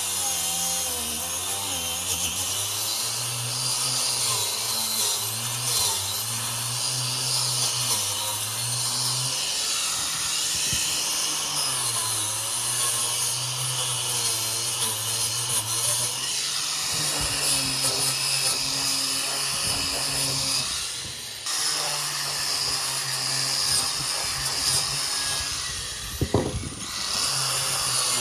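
A small electric power tool running continuously, its pitch dipping and rising as it is loaded, with a brief drop about two-thirds of the way through.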